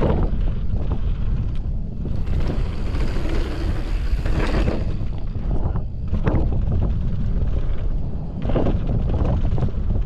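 Wind buffeting the microphone of a mountain bike descending a trail, over the hiss of knobby tyres on dirt and the short clicks and knocks of the bike rattling over rough ground. A brighter rushing hiss swells from about two seconds in and drops away near the middle.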